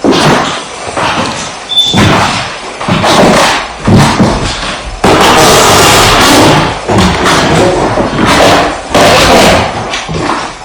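Heavy footsteps thudding on a wooden floor, a loud irregular series of thumps.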